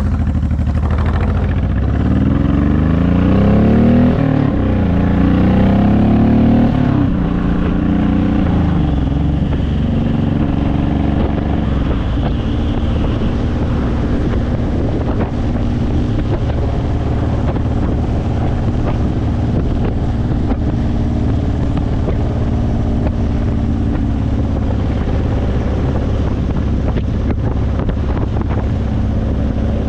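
Honda VTX1800's 1800cc V-twin with aftermarket Vance & Hines pipes running under way, with wind noise on the microphone. The engine pitch rises and falls a couple of times in the first several seconds, then holds steady at cruising speed.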